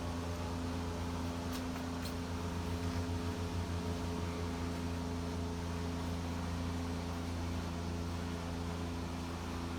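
Steady low machine hum with a few fixed tones in it: room tone from a running appliance such as a fan or air conditioner.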